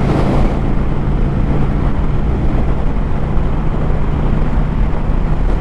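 Motorcycle engine running steadily at road speed, with a steady low engine tone under heavy wind noise on the microphone.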